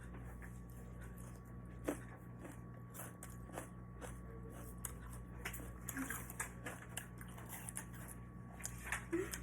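A person eating: chewing, with scattered short clicks and taps throughout, over a steady low hum.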